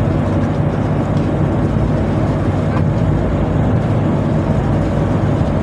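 Tugboat machinery running with a steady low drone and no change in pace.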